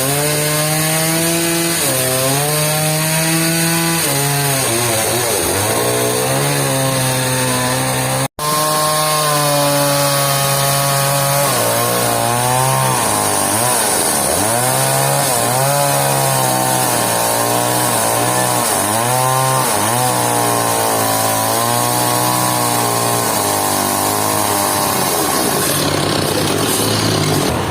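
Two-stroke chainsaw cutting through a hardwood log, its engine pitch sagging as the chain bites and climbing again as it frees up, over and over. There is a momentary break in the sound about eight seconds in.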